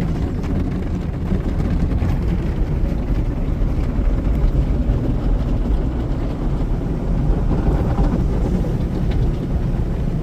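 Tunnel car wash heard from inside the car: wraparound brushes and rocker panel washers rubbing and spraying against the body, a steady low rumble.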